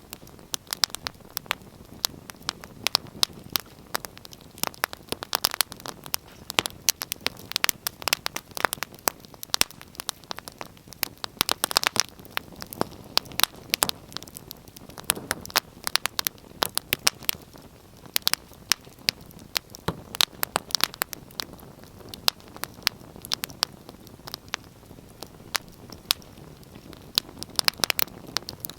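Wood fire burning in a fireplace: many irregular sharp pops and snaps over a steady soft hiss.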